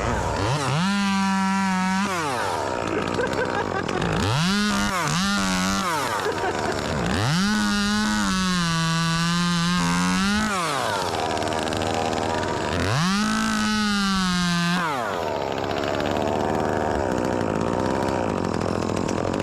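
Two-stroke chainsaw idling and being revved to full throttle several times, about four runs up, one of them a quick double blip, each falling back to idle, as when its tune is being checked.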